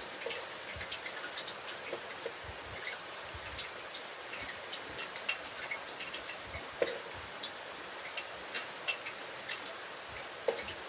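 Batter-coated pale chub frying in hot oil over a campfire: a steady sizzle with frequent small crackling pops. A continuous high-pitched insect trill runs underneath.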